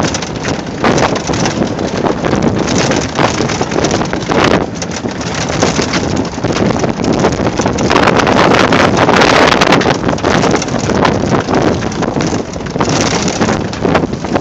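Loud, rough wind buffeting the microphone during a fast ride, with many short knocks and rattles mixed in. It is loudest about eight to ten seconds in.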